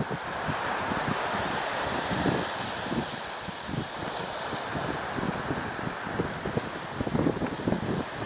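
Wind buffeting the microphone in irregular gusts over a steady rush of surf.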